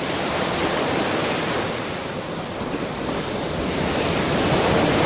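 Ocean surf washing onto a shore: a steady rush of breaking water that eases around the middle and swells again near the end as the next wave comes in.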